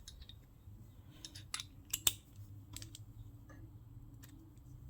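Scattered small clicks and clinks of metal engine parts and tools being handled, the loudest pair about two seconds in, over a faint low hum.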